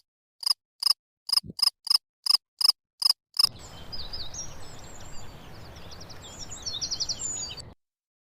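A run of about nine short, evenly spaced chirps, roughly three a second, ending about three and a half seconds in; then a steady hiss with scattered high twittering calls over it until a sudden cut.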